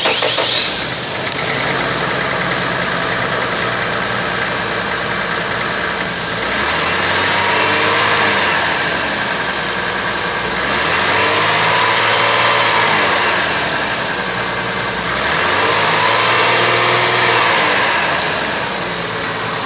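2003 Chevrolet Trailblazer engine idling, then revved up and let back down three times, each rev a slow rise and fall of about four seconds. There is a brief loud burst right at the start.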